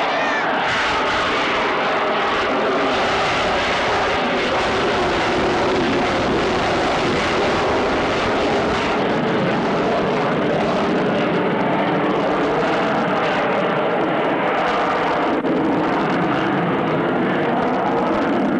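Aircraft engines running loud and steady, a continuous roar with faint pitch lines that waver slowly.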